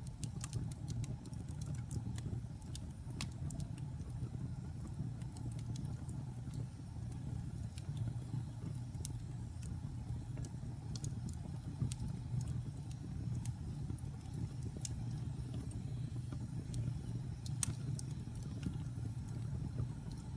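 Wood fire burning in a fireplace: a steady low rumble from the flames with scattered sharp crackles and pops, one louder pop near the end.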